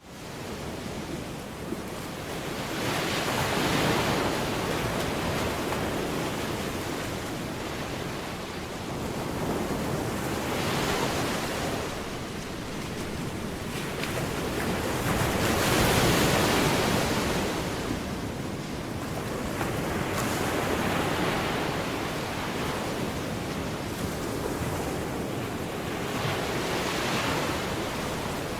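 Ocean surf: a steady rushing wash that swells and fades every five or six seconds as waves break.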